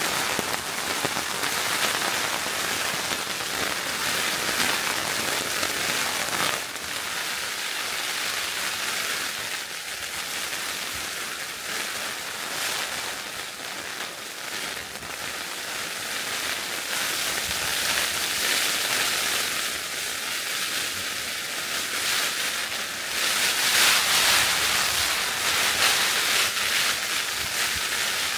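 Heavy rain falling hard on a tent's flysheet, heard from inside the tent as a dense steady patter that grows louder for a few seconds near the end.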